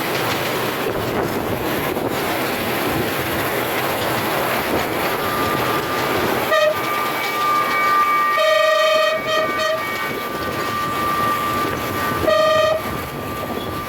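Miniature steam locomotive running on the track with a steady rushing, clattering sound, then sounding its whistle several times: a short toot, a longer blast broken twice, and another short toot near the end.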